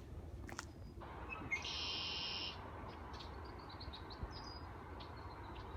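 Bird calls: a short, high call about two seconds in, then a run of quick, high chirps.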